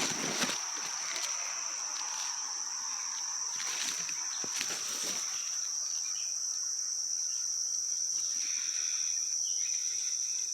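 Crickets chirping in a steady, unbroken high trill, with faint rustles of movement near the start and about four seconds in.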